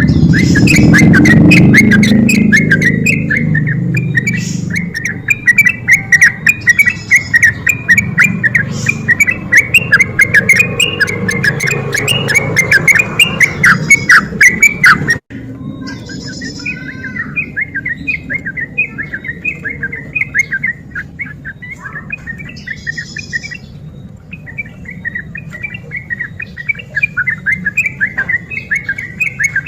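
Yellow-vented bulbul (trucuk) singing non-stop in fast, chattering phrases. About halfway through there is an abrupt cut, and the song goes on more quietly after it.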